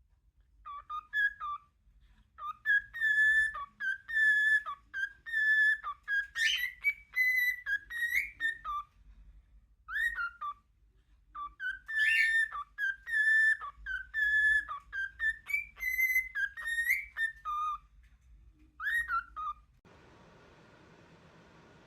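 A parrot whistling a learned tune: phrases of clear whistled notes, many held on one pitch and others sliding up or down. It stops shortly before the end, leaving a faint steady hiss.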